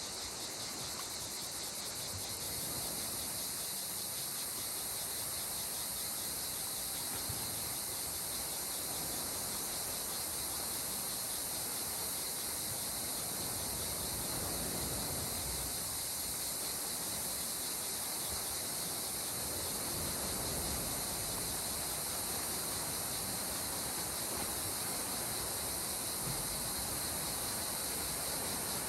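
Steady, high-pitched insect chorus that does not change, over a soft, continuous wash of sea water.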